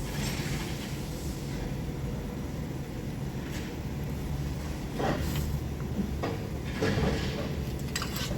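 A few knocks and clatters of tools and parts being handled during engine fitting, over a steady low hum.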